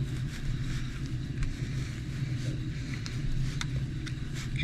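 A steady low mechanical hum, with a few light clicks and taps from handling the small parts of an RC truck's shock mounts.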